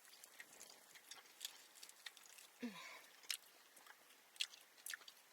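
Faint close-up chewing of tough steak: soft wet mouth smacks and clicks, scattered irregularly, with a brief falling murmur of voice a little over halfway through.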